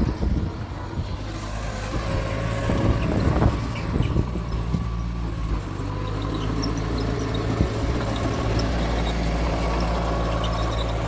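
Diesel engine of a Mitsubishi bulldozer running steadily as it works, louder for a spell in the first few seconds. Faint high squeaks and ticks sound over it.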